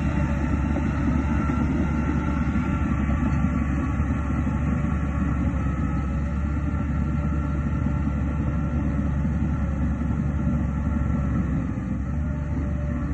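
Diesel engine of a Shantui DH17C2 bulldozer running steadily: a deep, continuous rumble with faint steady tones above it, easing slightly near the end.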